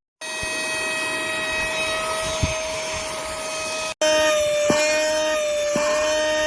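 Small cordless handheld vacuum cleaner / air duster motor running with a steady high whine. It cuts out briefly just before four seconds in and resumes louder and slightly lower in pitch.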